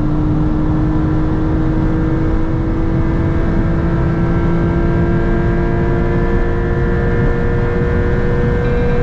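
Porsche 911 (992) Targa 4 GTS's twin-turbo flat-six pulling hard in a high gear, its note rising slowly and steadily, over a loud, steady rush of wind and road noise.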